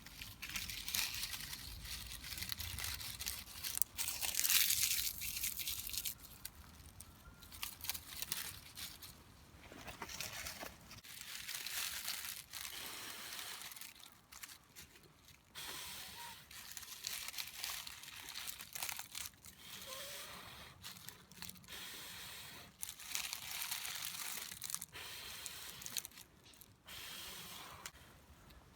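Irregular rustling, crinkling and crunching of things being handled, in bursts that come and go, loudest about four to six seconds in.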